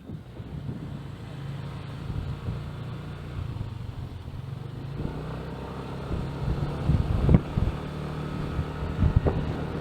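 Small motorcycle engine running steadily while riding, with a few louder gusts of wind hitting the microphone in the last few seconds.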